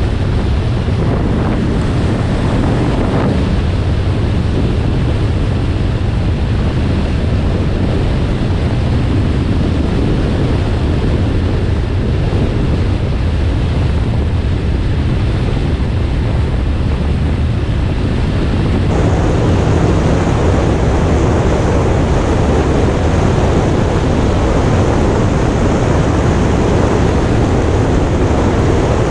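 Wind rushing over the microphone with a steady low rumble underneath, as on a motorcycle under way; it gets louder about two-thirds of the way through.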